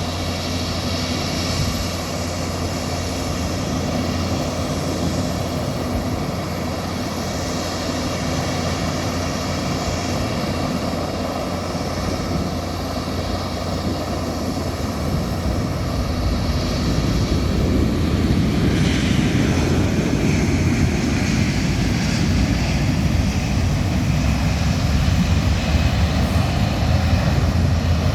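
Aircraft turbine engines running steadily with a high whine over a low rumble, growing louder about sixteen seconds in.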